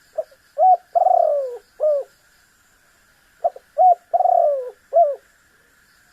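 Spotted dove cooing, its phrase given twice: two short coos, a longer falling coo and a final short coo. A faint steady high hum runs underneath.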